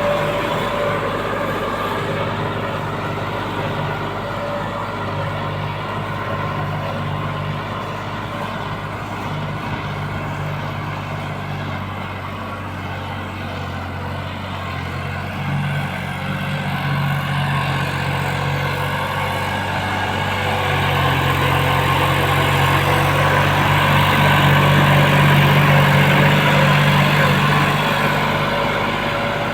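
New Holland 6510 tractor's diesel engine running steadily under load while pulling a Lemken subsoiler deep through the soil; it grows louder about two-thirds of the way through and eases slightly near the end.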